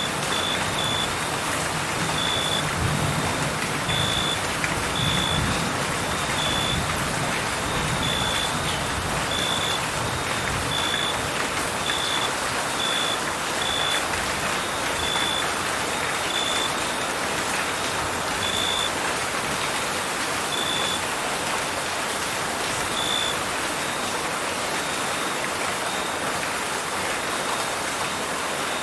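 Steady rain falling, with crickets chirping in short, high pulses about once a second that become sparser in the second half.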